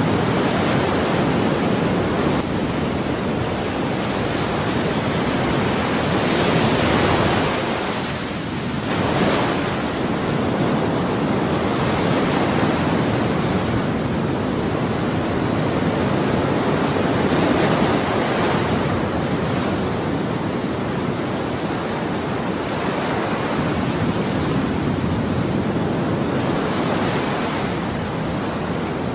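Ocean surf: a continuous rushing wash of waves, swelling as waves break, about four times over the stretch, with a brief lull between two of them.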